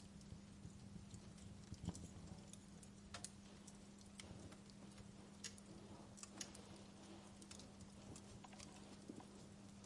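Wood fire crackling quietly: faint, irregular snaps and pops over a steady low hum.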